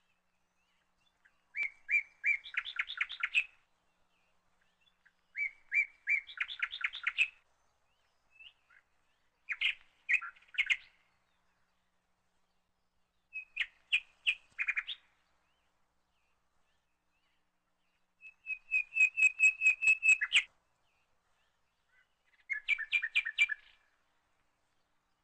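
A songbird singing six short phrases with pauses of a few seconds between them, each phrase a quick run of repeated chirping notes.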